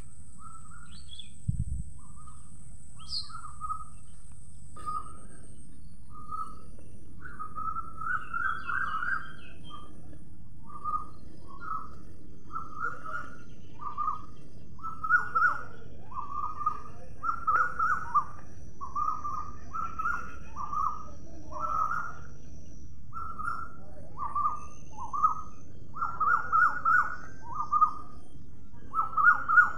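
A bird chirping over and over in short calls, sparse at first, then about two a second and louder from about a quarter of the way in, over a steady low background hum.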